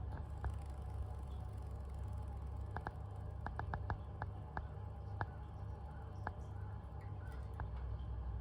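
A dozen or so short, light clicks and taps at irregular intervals, several close together near the middle, over a steady low hum.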